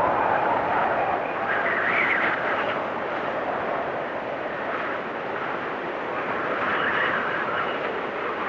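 Blizzard wind howling in gusts, its whistling pitch swelling upward about two seconds in and again near the end.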